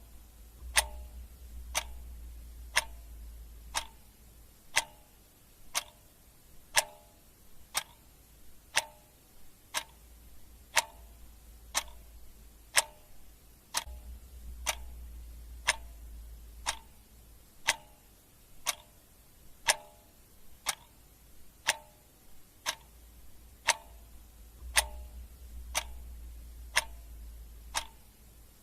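Clock ticking steadily, about one tick a second, under a faint low rumble that comes and goes.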